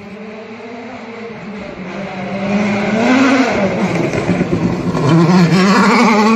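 An engine running, its pitch rising and falling as it revs, growing louder over the first three seconds.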